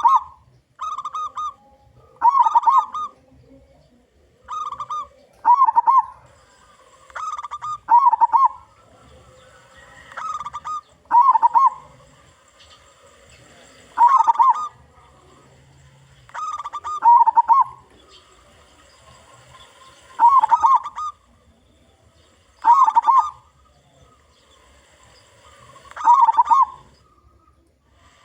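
Zebra dove (local perkutut) cooing song. Short phrases come in pairs, a softer phrase followed by a louder one, and the pattern repeats every few seconds.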